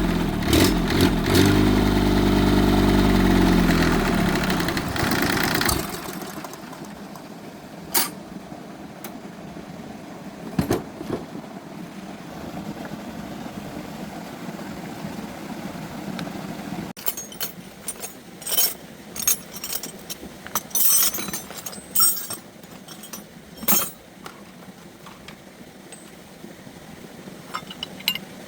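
The repaired engine runs for about six seconds, its pitch falls, and it stops. After that come scattered metallic clinks and taps.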